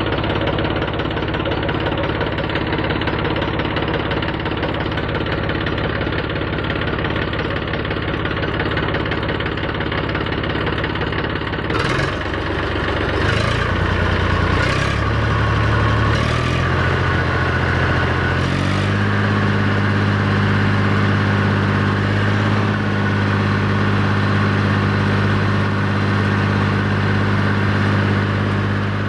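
Eicher 333 tractor's diesel engine idling. About twelve seconds in, the throttle is raised in a few steps, and the engine then runs steadily at a higher speed.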